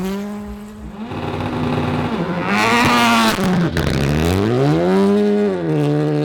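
Rally car engine revving hard, its pitch climbing and dropping several times with the throttle and gear changes. About three seconds in comes a brief loud rushing noise, and the note falls away near the end.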